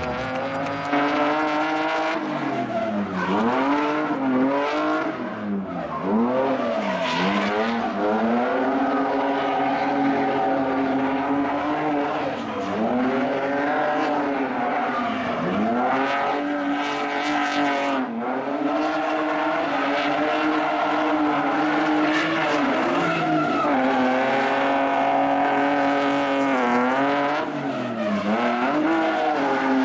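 Drift car engine held at high revs, repeatedly dipping and climbing back up in pitch as the throttle is worked, with tyres skidding.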